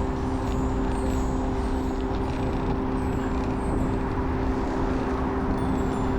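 Steady road-traffic noise heard from a moving bicycle, with a constant low engine hum from a nearby motor vehicle.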